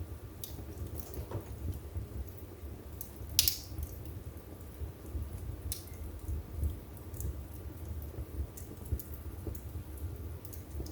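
Wood fire burning in a fireplace: a steady low rumble of flame with scattered sharp crackles and pops of burning wood, one louder pop about three and a half seconds in.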